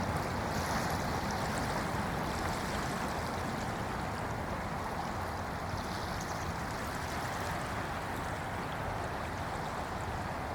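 Small waves washing gently onto a shallow sandy beach at low tide, a steady soft wash with faint fizzing, over a steady low rumble of distant road traffic.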